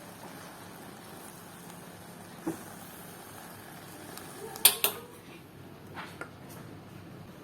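Kitchen cookware being handled: a soft knock, then a sharp double clack about halfway through and two lighter knocks after it, over a steady background hum.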